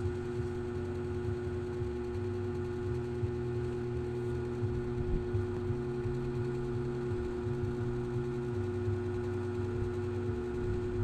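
A steady low electronic-sounding drone: two held tones over a deeper rumble that shifts in pitch in abrupt steps every second or so.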